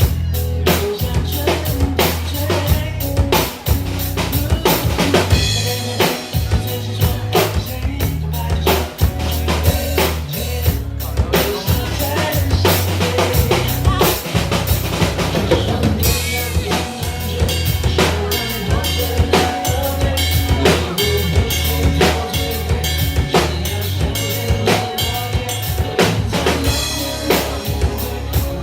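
A drum kit playing a steady pop beat of kick, snare and rimshot hits, with the song's music behind it.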